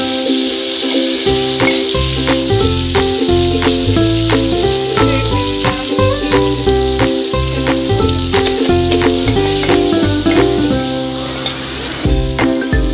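Chopped green bell peppers and onions sizzling as they stir-fry in a hot pan, a steady high hiss, under background music with a steady beat and a melody.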